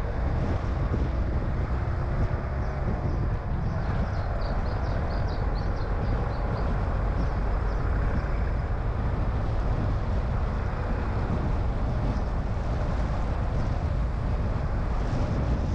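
Car on the move: steady road and engine noise with some wind buffeting the microphone.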